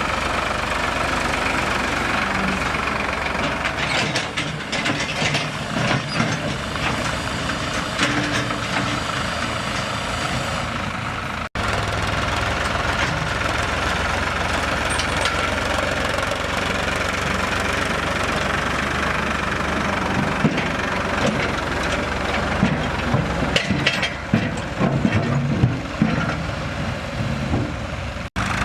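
Heavy vehicle's diesel engine running steadily, with a few irregular knocks and clatters near the end.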